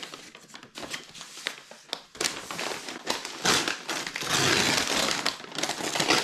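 Paper takeaway bag and food wrapping crinkling and rustling as they are handled, with irregular crackles. It grows louder and denser in the second half.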